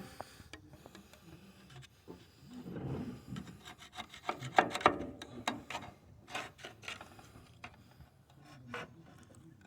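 Irregular scraping and rubbing with scattered sharp clicks and knocks, busiest in the middle.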